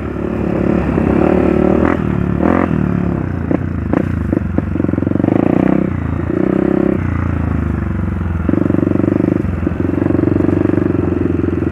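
Dirt bike engine running on a trail, the throttle opening and closing so its note rises and falls, with occasional knocks and rattles.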